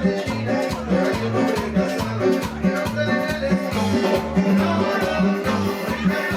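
Live Latin dance music from a keyboard-led group band, with a steady bass beat of short notes, about two to three a second.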